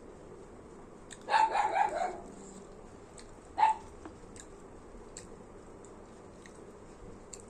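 A dog barking: a quick run of a few barks about a second in, then a single bark about two seconds later.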